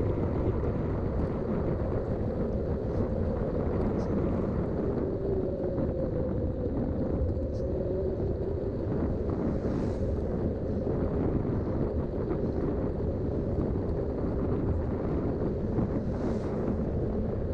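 Riding noise from a Specialized Rockhopper 29-inch mountain bike on Schwalbe tyres: a steady rush of wind on the microphone and tyre rumble, with a hum that wavers in pitch and a few faint ticks.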